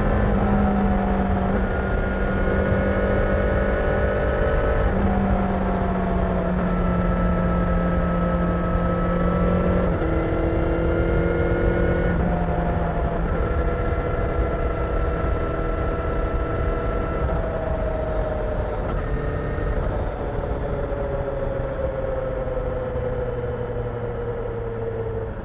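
Kawasaki Ninja 1000SX inline-four engine running while the bike is ridden, with a steady rush of wind and road noise. The engine note shifts in steps several times, then falls slowly over the last five seconds.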